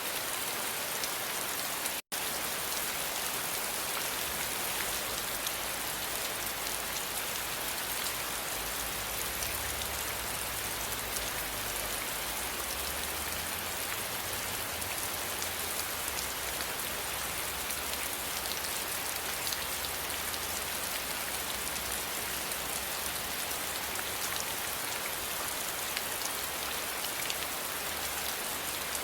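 Steady rain falling, with a dense patter of individual drops ticking. The sound cuts out for an instant about two seconds in.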